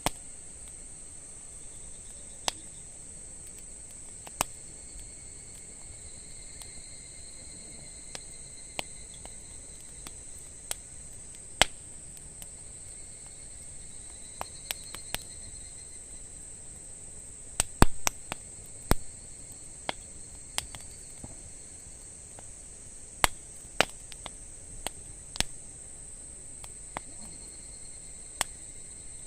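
Wood fire crackling, with irregular sharp pops and snaps and a brief cluster of them a little past the middle. Under it runs a steady high insect trill, like crickets.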